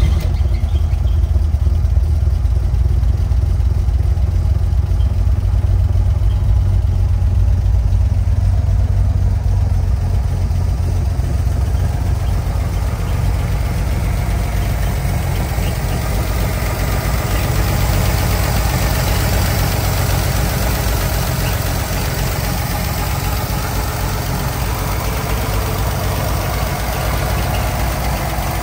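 1969 Toyota FJ40 Land Cruiser's straight-six engine idling steadily just after starting, a deep even running sound that eases off slightly after about ten seconds.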